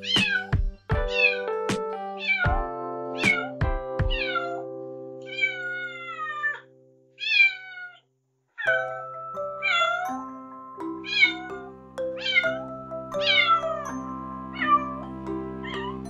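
A kitten meowing over and over, short high mews that fall in pitch, with a few longer wavering ones and a brief gap about halfway. Background music with held notes and a few low beats plays underneath.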